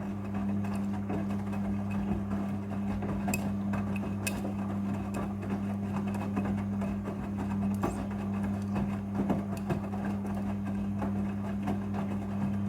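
Front-loading washing machine running in its prewash cycle: a steady electric hum with a light clicking rattle over it.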